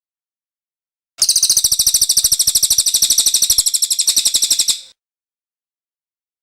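Cililin songbird singing one long, very rapid high-pitched trill of evenly repeated notes. It starts about a second in and fades out near the end, with silence on either side.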